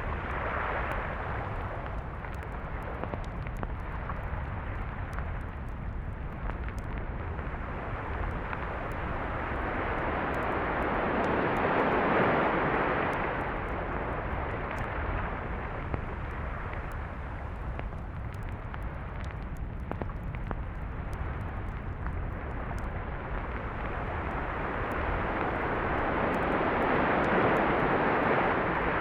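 Sea waves washing onto a beach: a steady surf rush that swells twice, about twelve seconds in and again near the end, over a low rumble.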